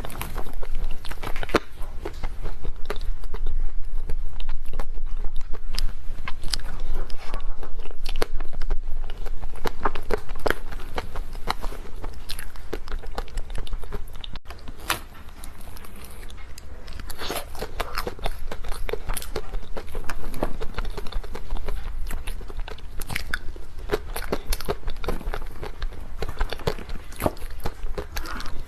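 Close-miked eating of cake: repeated biting and chewing with many small, irregular crunches and wet mouth clicks.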